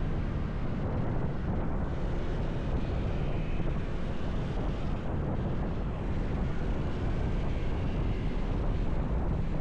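Riding a motorcycle: steady wind rushing over the action camera's microphone, a low rumble with the ride's road noise mixed in.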